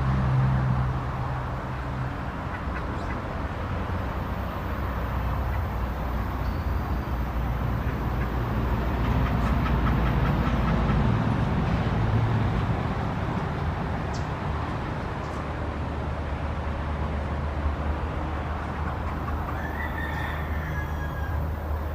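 Steady low rumble of motor traffic, swelling about ten seconds in, with a few short, faint bird calls near the end.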